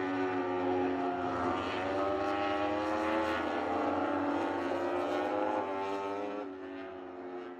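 Several motorcycle engines running together, their overlapping engine notes held fairly steady, fading out near the end.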